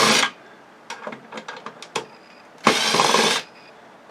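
Two short bursts of a small power tool, one at the start and one near three seconds in, with light clicks and handling between them.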